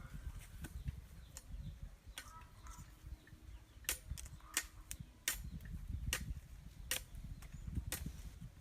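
A series of sharp knocks, six in all, about one every three-quarters of a second through the second half, over a low rumble.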